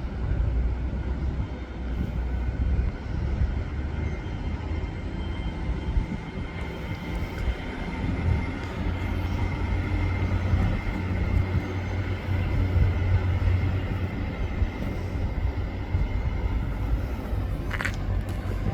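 Passenger train pulling out of the station, its engine rumbling low and steady and swelling partway through, with a faint steady whine. There is a short sharp sound near the end.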